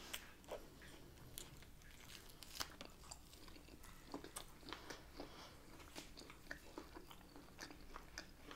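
Faint chewing and biting of Lebanese flatbread rolled around chicken, with irregular small wet mouth clicks.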